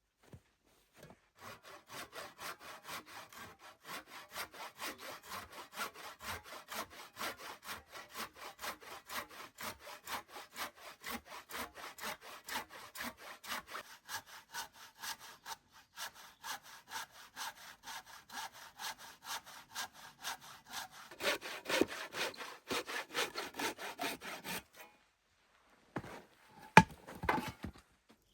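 Hand saw cutting wood in steady back-and-forth strokes, about three a second, growing louder over the last few seconds of the cut before stopping. A few sharp knocks follow near the end.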